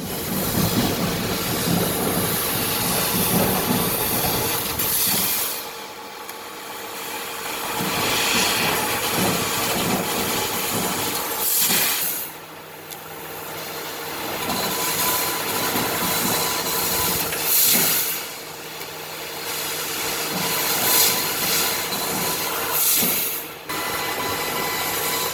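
CNC laser cutting machine at work: a loud, steady hiss with a faint motor whine, dropping off briefly about four times.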